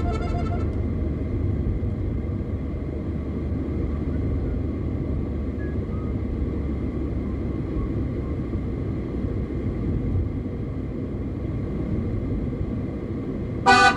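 Car on the highway, a steady low rumble of road and engine noise. Music fades out at the start and comes back near the end.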